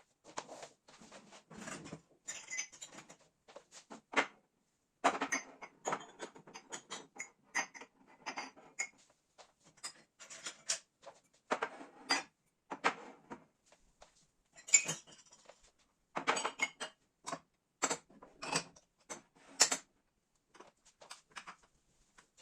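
Irregular clinks, knocks and clatters of dishes and kitchenware being handled and set down.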